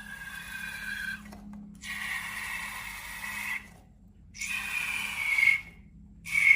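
Rubber balloon squeaking in a series of drawn-out squeals, each a second or two long, with short pauses between them.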